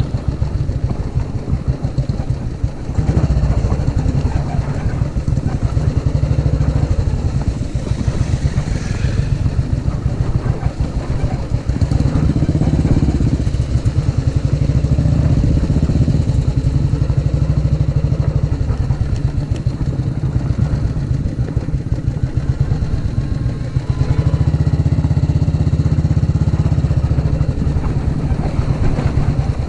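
Old Royal Enfield motorcycle engines running at low speed with a steady thumping note that rises and falls a few times.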